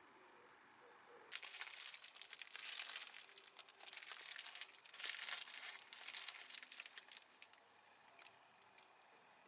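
Plastic crinkling and rustling as something is handled, starting about a second in and lasting around six seconds before it dies down.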